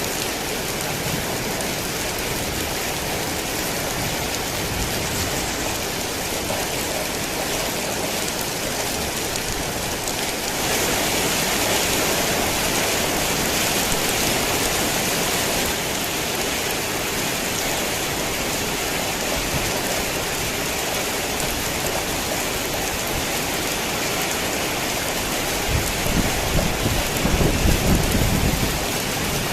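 Heavy rain falling steadily, growing louder for about five seconds from ten seconds in, with a low rumble of thunder near the end.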